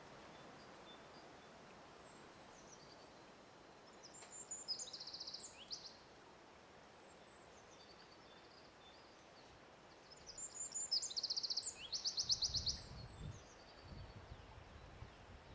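Songbird singing two short phrases of high, rapidly repeated trilled notes, about four and ten seconds in, over a steady faint outdoor hiss. A low rumble follows for a second or two near the end.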